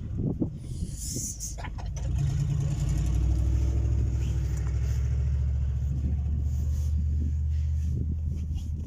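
An engine running steadily with a low hum, starting about two seconds in, after a few short knocks.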